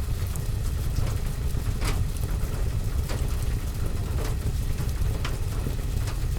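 Fireplace fire with rain falling on a window and roof: a steady deep rumble with scattered sharp crackles and ticks.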